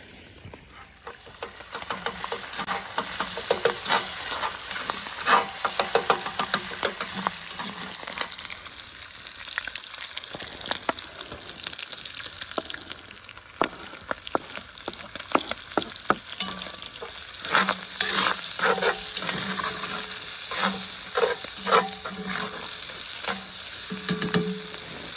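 Ground beef frying and sizzling in a cast iron Dutch oven, with a utensil stirring and scraping it in quick, irregular clicks and scrapes.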